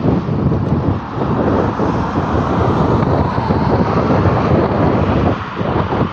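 Heavy trucks driving past on a highway, with loud engine and tyre noise. The level dips briefly about a second in and again near the end.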